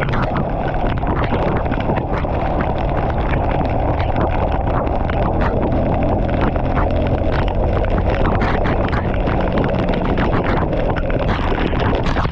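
Motorcycle engine running steadily while riding, with loud wind buffeting the microphone.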